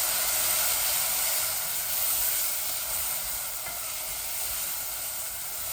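Onion, ginger, garlic and ground spices sizzling steadily as they fry in oil in a pot, a little louder in the first half.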